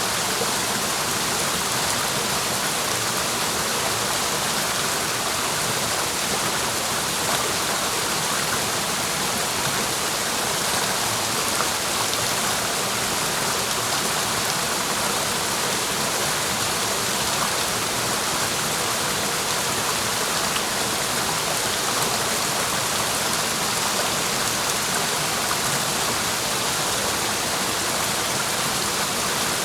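Mountain stream rushing and splashing over rocks: a steady, even rush of water.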